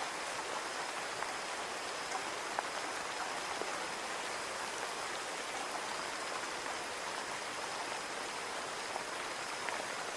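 Steady rain on a window pane: an even hiss with scattered sharp ticks of single drops.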